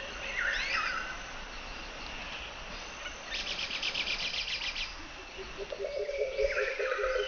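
Wild birds calling with sweeping whistled notes, over a faint steady high insect drone. About halfway through comes a fast buzzy trill, and near the end a low, rapidly pulsing animal call joins in.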